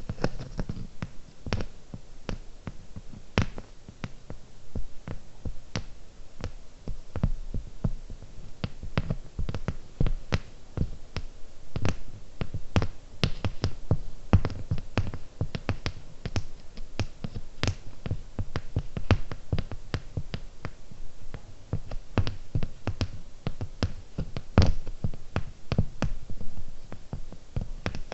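Fingernails tapping on small hard objects close to the microphone: quick, irregular clicks, several a second, with no pauses.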